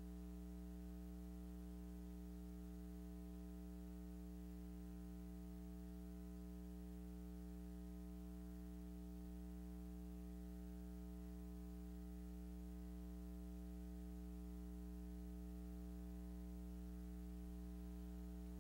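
Steady electrical mains hum, a low buzz made of even, unchanging tones, with no other sound above it.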